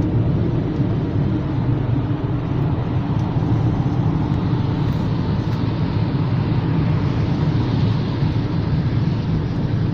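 Steady road noise inside a moving car: a low drone of tyres and engine at speed, with a higher hiss swelling briefly near the end.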